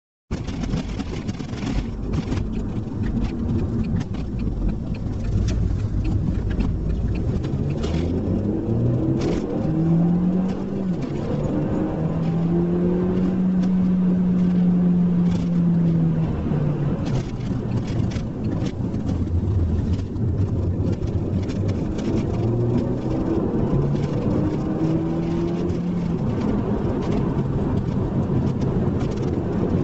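SEAT Leon Cupra R's turbocharged four-cylinder petrol engine accelerating through the gears: its pitch climbs and falls back at each shift several times, holds steady for a few seconds in the middle, then climbs through more gears, over steady road and wind noise.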